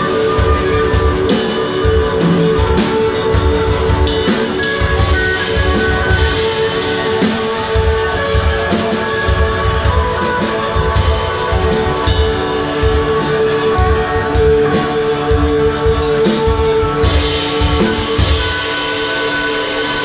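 Instrumental rock band playing live: guitars over a drum kit keeping a steady fast pulse. Near the end the drums drop out and the guitars keep ringing as the song winds down.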